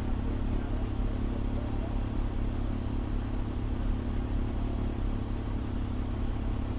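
Fire engine's diesel engine running steadily, a low, even rumble with no change in pitch.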